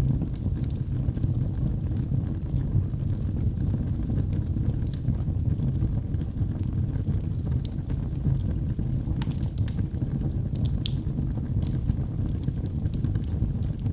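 Wood fire burning in a fireplace: a steady low roar of flames with scattered sharp crackles and pops from the burning logs, a small cluster of crackles about two-thirds of the way through.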